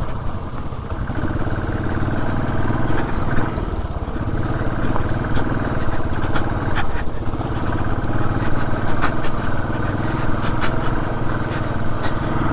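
Benelli TRK 502's parallel-twin engine running steadily under way, with scattered sharp clicks and knocks over it.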